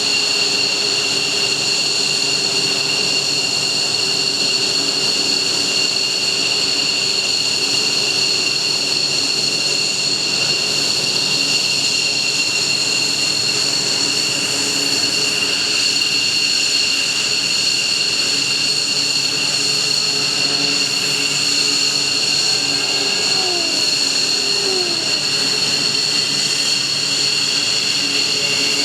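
Mitsubishi F-15J fighter's F100 turbofan engines running on the ground after start-up: a loud, steady jet whine made of several high pitches over a lower drone, with a faint tone slowly rising in the last third.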